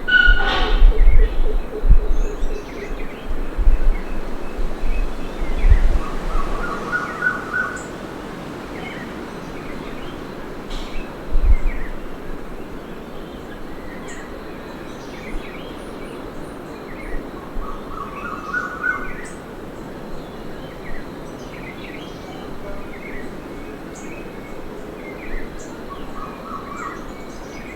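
Tropical forest ambience: birds chirping and calling over a steady hiss, with one short rising call that comes back about every ten seconds. A few low thuds sound in the first six seconds and once near the middle.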